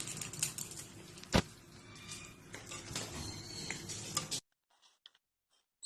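Scattered light taps and clicks in a small room, with one sharp knock about a second and a half in; the sound cuts off abruptly about four seconds in.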